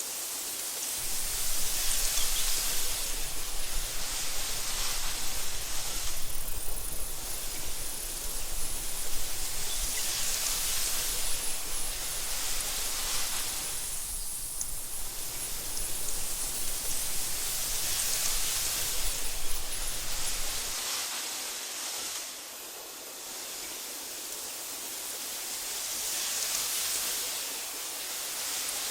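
Wind blowing through tall meadow grass in gusts that swell and ease every few seconds, mostly a high hiss. A low rumble runs under it and drops out about two-thirds of the way through.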